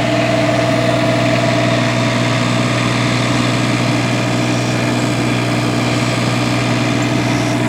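An engine idling at a constant speed, giving a steady hum with a few fixed tones and no change in pace.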